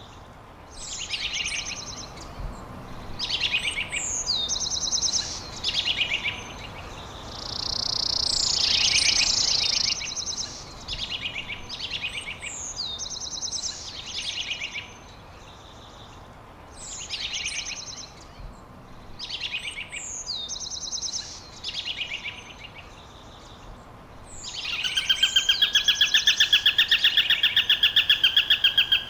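Songbirds singing: short, high song phrases repeated every couple of seconds, a buzzy phrase about a third of the way in, and a long, loud, rapid trill near the end.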